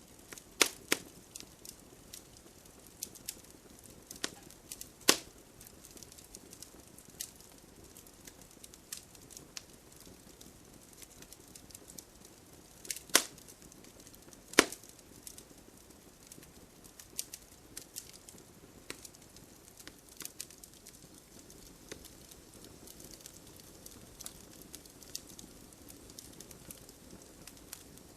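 Wood campfire crackling: irregular sharp pops and snaps of burning wood over a soft low hiss of flame, with a few louder pops near the start, about five seconds in, and twice around the middle.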